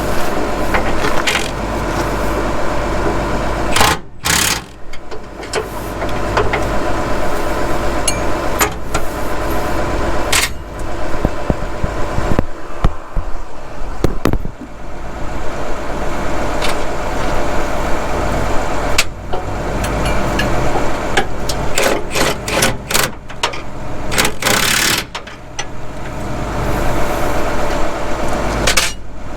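A steady machine hum runs throughout, with irregular clanks and knocks of hand tools and metal parts.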